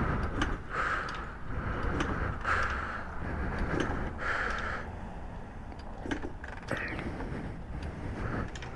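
Kickstart lever of a 1982 Honda XL500R single being pumped slowly to find top dead center: a run of short strokes about a second apart, with mechanical clicks, while the engine turns over without firing.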